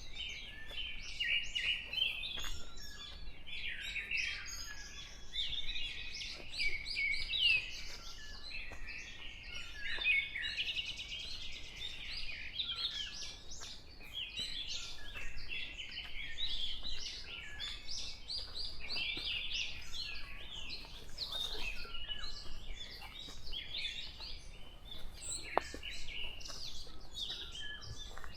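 Dawn chorus of forest birds: many small birds chirping, trilling and singing at once, overlapping without a break.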